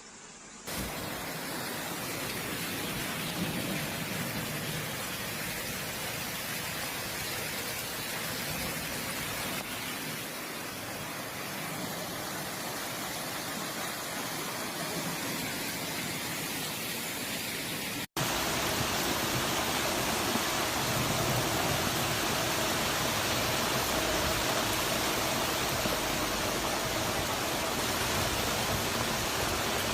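Heavy rain pouring steadily. It cuts out for an instant about 18 seconds in and resumes a little louder.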